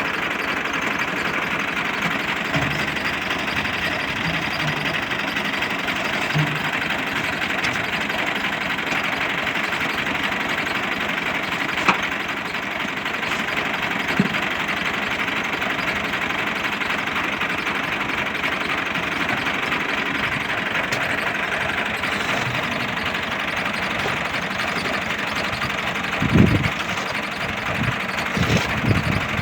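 Fiat 480 tractor's diesel engine running steadily, with a few low thumps near the end.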